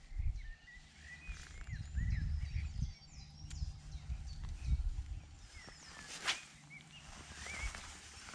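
Small birds singing and calling, a run of quick repeated chirps and twittering notes. Wind gusts buffet the microphone, and there is one sharp click about six seconds in.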